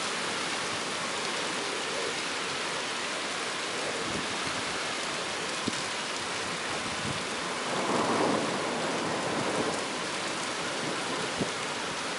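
Heavy rain falling steadily in a thunderstorm, hitting surfaces close to the microphone, with a few sharp single taps of drops. About eight seconds in the sound swells louder for a second or so.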